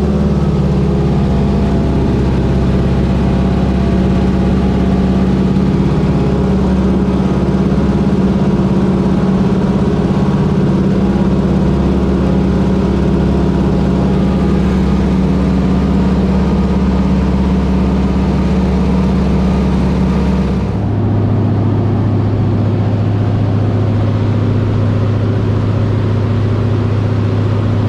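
Float plane's engine and propeller running with a steady loud drone. About 21 seconds in the tone shifts abruptly lower and deeper, then holds steady.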